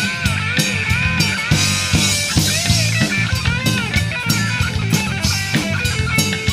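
Live rock band playing an instrumental passage: electric guitar over a driving drum kit and bass. In the first half the lead line bends up and back down about twice a second.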